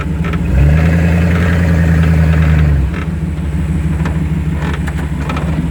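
Two-wheel-drive Chevy pickup's engine pulling under throttle as the truck crawls out of a mud hole, louder for about two seconds, then easing back to a lower steady run.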